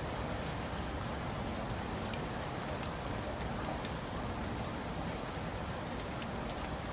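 Steady rain falling, an even hiss of rainfall with many small drops ticking on a surface.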